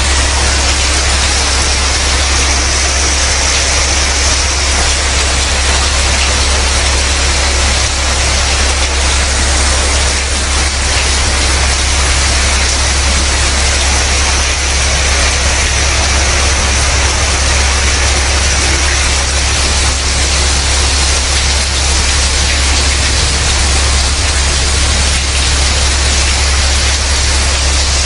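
Loud, steady rush of torrential rain and floodwater, with a deep rumble underneath and no let-up.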